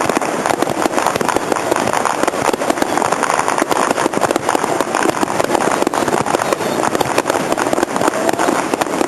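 Fireworks crackling and popping in a rapid, unbroken stream over a steady background din.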